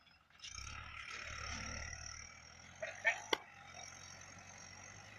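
Mahindra 595 DI tractor engine running, rising about half a second in and easing off after about two seconds. Two sharp clicks come a little after three seconds in.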